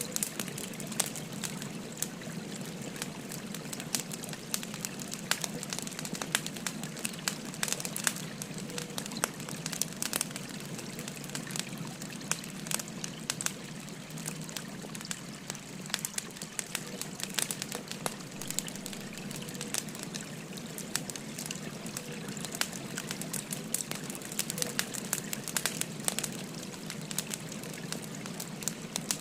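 Wood fire crackling, with frequent irregular sharp pops and snaps, over the steady babble of a flowing stream.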